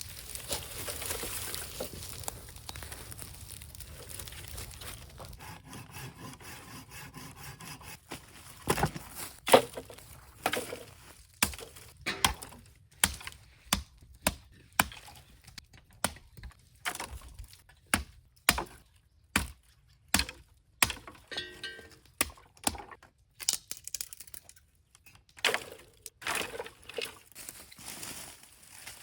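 A long series of sharp wooden knocks and cracks, about one or two a second, starting about eight seconds in, over quiet background music: scrap wood being knocked about and broken up.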